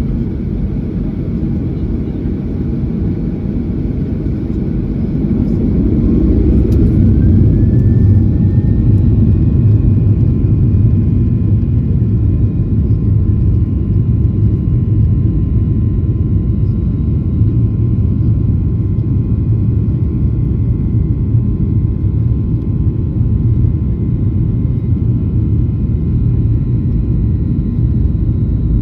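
Boeing 737-800's CFM56-7B jet engines, heard from inside the cabin, spooling up to takeoff thrust. A whine rises about six seconds in as the sound grows louder, then settles into a loud steady rumble with a held whine above it.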